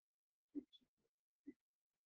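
Near silence, with a few faint short blips about half a second and a second and a half in.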